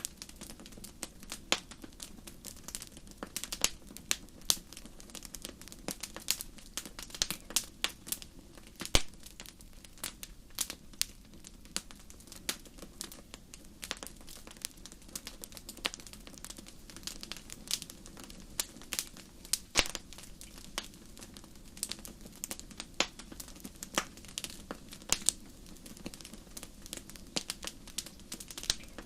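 Wood campfire crackling: a steady scatter of sharp, irregular pops and snaps of varying loudness, several a second, over a soft low hiss of the burning fire.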